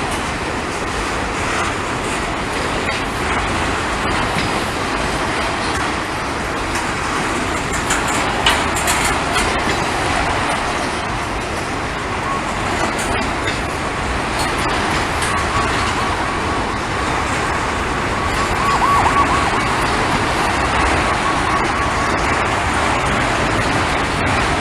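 Norfolk Southern freight train rolling past, a steady loud rumble of wheels on rail. A faint high steady tone runs through the middle, wavering briefly near the three-quarter mark.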